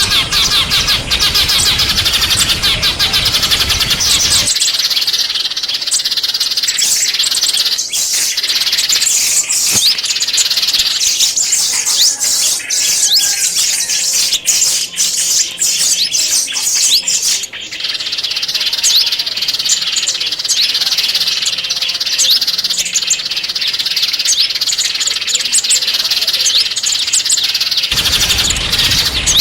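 Small songbirds chirping and twittering rapidly in dense, high-pitched calls, with short quick pitch sweeps. A low background noise under the birds cuts off abruptly a few seconds in and returns near the end, and there is a brief break just past the middle.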